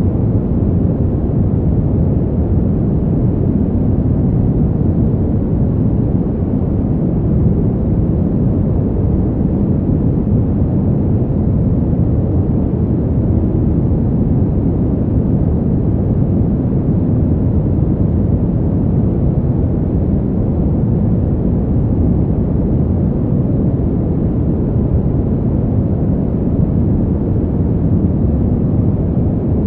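Winter-wind ambience track playing as a steady, deep, muffled rush with no gusts, swells or breaks.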